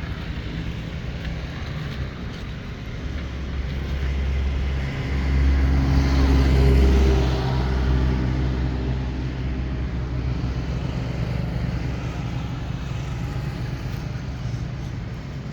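A motor vehicle's engine running with a steady low hum, growing louder about five seconds in and easing off after about eight seconds.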